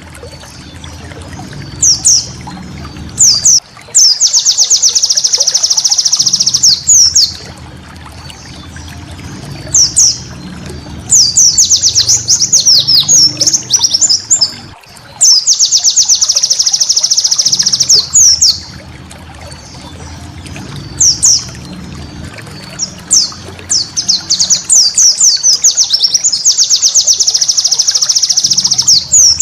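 White-eye (pleci) song: bursts of very rapid, high trilled notes lasting two to three seconds each, alternating with sharp, sweeping whistled notes. A low hum sits under the trill bursts.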